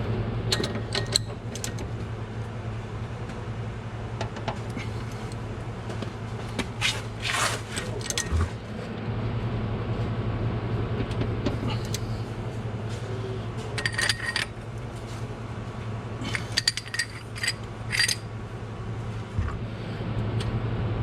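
Hand tools clinking and rattling against metal in short clusters as the castle nut on a new upper control arm's ball joint is turned to line up the cotter-pin hole, some strikes ringing briefly. A steady low hum runs underneath.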